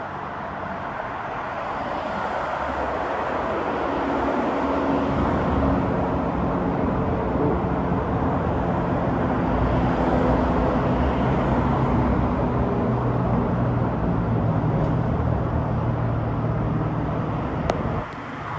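Engine drone of a small airplane flying overhead, building over the first few seconds and then holding steady, with a low pitched hum under a wide rushing noise; it cuts off abruptly near the end.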